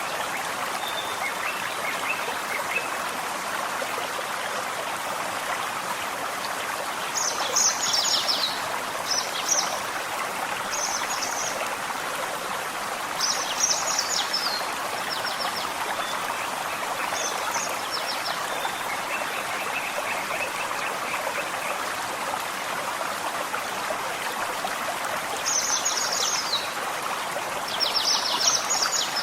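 Steady rushing and trickling of a small forest stream, with short phrases of high, rapid birdsong breaking in several times, most strongly about a quarter of the way in and again near the end.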